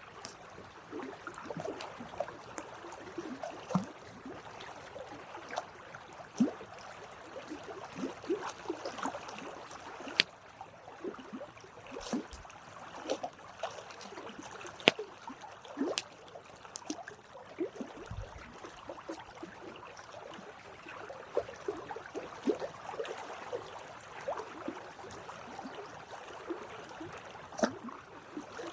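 Wood campfire burning: a dense, irregular crackle with occasional sharp pops, the loudest about halfway through.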